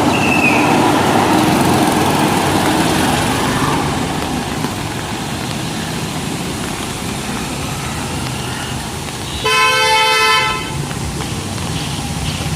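Steady road traffic noise, with one vehicle horn honking for about a second near the end.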